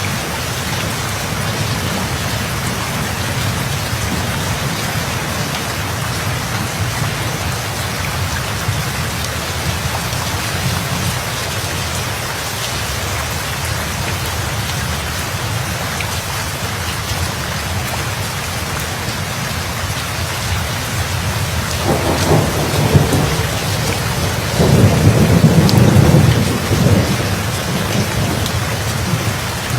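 Steady heavy rain falling, with thunder rumbling twice in the last third, the second rumble the louder and longer.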